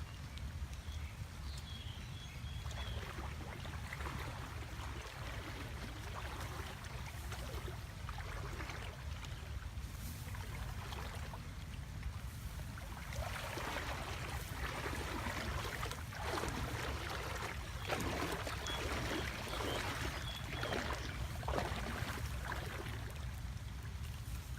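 Water sloshing and splashing in irregular bursts, busier in the second half, over a steady low rumble.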